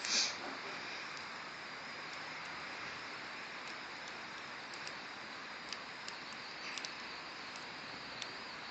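Wood bonfire of boards burning with a steady hiss and a few sharp crackling pops, and one louder short burst just at the start.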